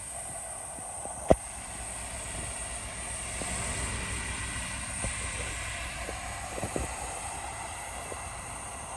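Heavy earthmoving machinery running with a steady low diesel rumble, with a sharp clank about a second in and a few fainter knocks later.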